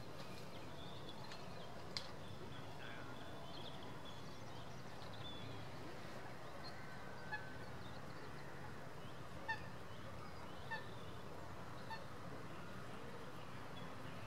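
Faint outdoor ambience: a steady low hum with scattered distant bird calls, thin high notes in the first few seconds, then short single calls about seven, nine and a half, ten and a half and twelve seconds in.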